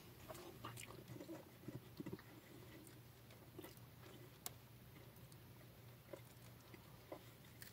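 Faint chewing of a roast beef sub sandwich: soft wet mouth noises and a scattering of small sharp clicks, over a low steady hum.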